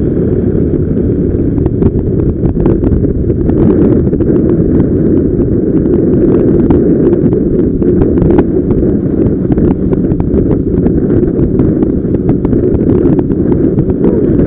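Loud, steady wind buffeting the microphone: a dense low rumble with scattered small knocks.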